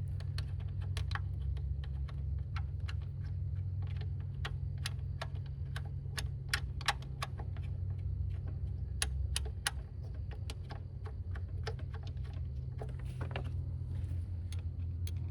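Irregular light clicks and taps of metal parts and bolts being handled and started by hand in an engine bay, over a steady low hum.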